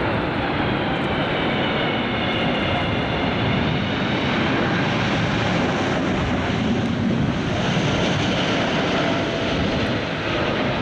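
Boeing 777 airliner passing close on landing: a loud, steady jet-engine rush, with a whining engine tone that slides down in pitch during the first few seconds.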